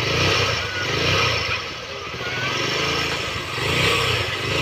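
Honda XR 150's single-cylinder four-stroke engine running just after an overhaul, the throttle blipped so it swells up and down a few times. There is no knock from the bottom end: the rebuild has cured the knocking.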